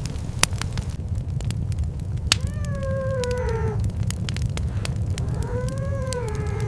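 Two weak, drawn-out whimpering cries, about two seconds apart: the first falls in pitch, the second rises and then falls. Behind them run a steady crackling of sharp clicks and a low rumble.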